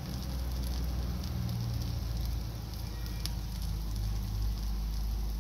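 Mooli paratha frying in oil on a hot iron tawa, sizzling steadily with faint crackles over the low rumble of the gas flame, and one small sharp pop about three seconds in.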